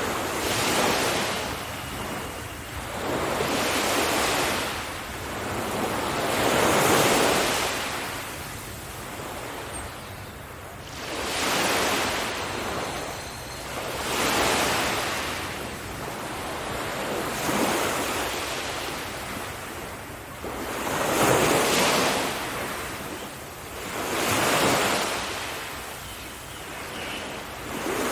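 Ocean surf washing onto a beach, a wave breaking about every three seconds, each one swelling up and fading away.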